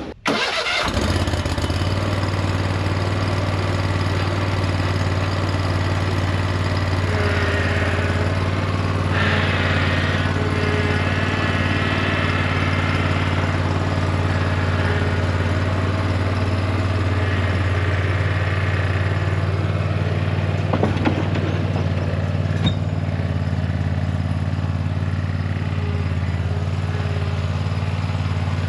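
A vehicle engine starts right at the beginning and then runs steadily with a low drone, with a couple of small clicks about two-thirds of the way through.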